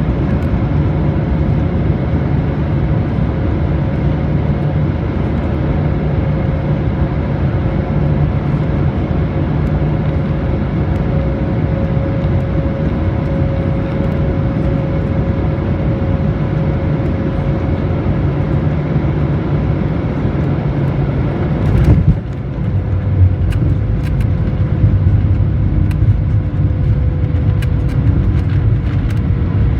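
Cabin noise of a jetBlue Airbus A220-300 with its Pratt & Whitney geared turbofans on final approach: a steady rumble of engines and airflow with a steady whine. About 22 seconds in a sudden thump marks touchdown, followed by a rougher rumble and rattles as the jet rolls out on the runway.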